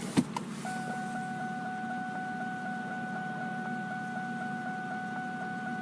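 Electronic warning chime in the 2000 Ford Mustang's cabin: one steady pitched tone that starts about a second in and pulses about four times a second, over a low steady hum.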